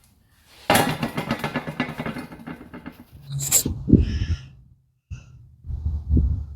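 Steel bumper parts being handled and worked: a rapid run of scraping and rattling metal for about two seconds, a sharp clank with a brief ringing tone around the middle, then duller knocks near the end.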